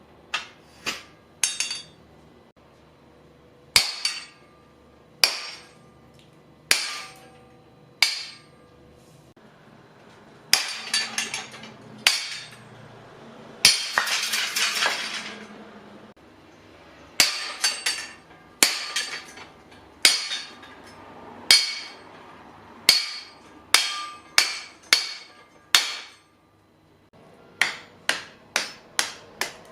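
Sledgehammer blows on a homemade guillotine-style kindling cracker, driving its wedge down through firewood: a long series of sharp, ringing metal strikes, spaced a second or so apart at first and coming in quicker runs later, with a longer noisy stretch about halfway through.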